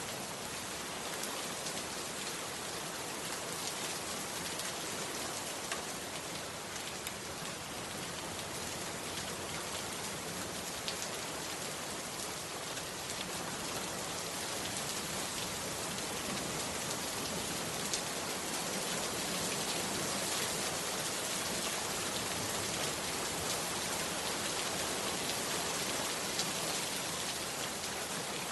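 Heavy rain falling steadily, a dense patter of drops that grows slightly louder in the second half.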